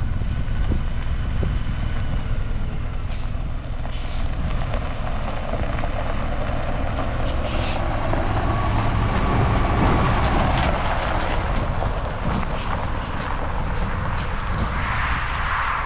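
Heavy diesel truck engine running steadily, with a few short hisses of air from the air brake system.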